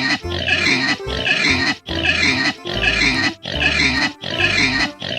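Domestic pig grunting in a quick run of about eight short calls over children's background music with a steady bass line.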